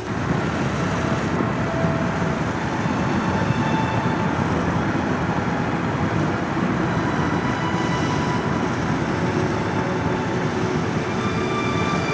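Car driving under way: steady engine and road-noise rumble.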